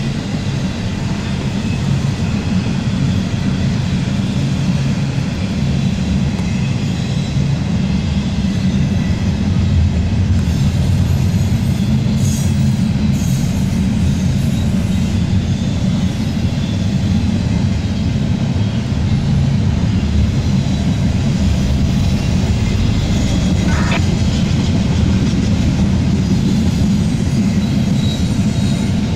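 Double-stack intermodal train's well cars rolling past steadily, heard from inside a car: a continuous low rumble of steel wheels on rail with a faint, steady high-pitched wheel squeal over it.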